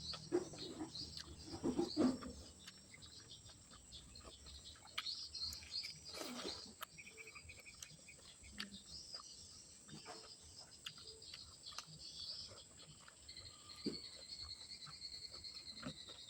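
Close-up eating sounds: chewing, smacking and crunching of food, made up of many short clicks, with a few louder crunches in the first couple of seconds. A steady high-pitched insect drone and brief chirps run faintly behind.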